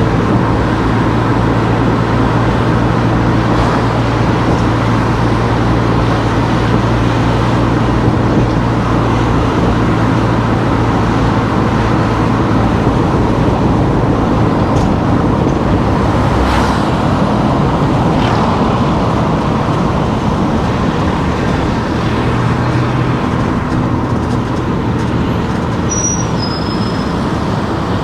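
A car driving through town streets: steady engine and road noise, with a low engine hum that holds for about the first half, fades, and returns briefly later on.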